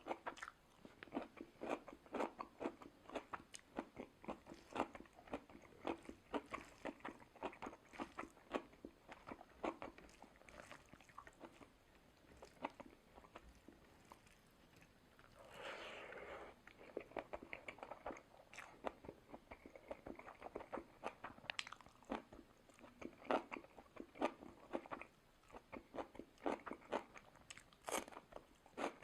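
Close-miked eating of soya chunk curry, rice, roti and salad by hand: steady chewing with frequent crisp crunches and mouth clicks, and a brief noisier rustling patch about halfway through.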